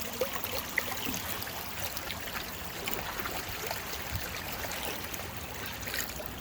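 Floodwater running and trickling steadily like a stream, with a few small splashes as debris is worked loose from a blockage.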